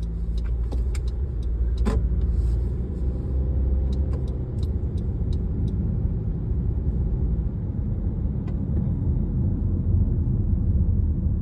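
Inside the cabin of a Honda CR-V with a 1.5-litre L15 turbo engine: a steady low engine and road rumble. For the first six seconds or so there is a regular light ticking, about three ticks a second, which then stops.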